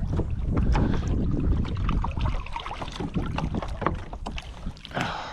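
Wind buffeting the microphone aboard a kayak, with scattered small clicks and knocks and a louder knock about five seconds in.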